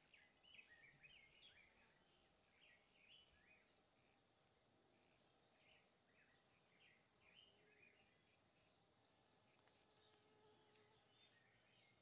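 Faint bird chirps: many short, quick notes throughout, over a steady high-pitched whine.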